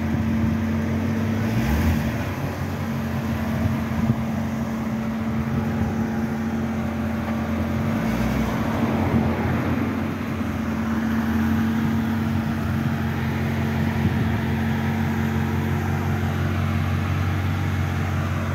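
1991 Chevrolet Corvette C4's 5.7-litre V8 running steadily at low revs as the car is manoeuvred at walking pace, with brief changes in the engine note about two and eight seconds in.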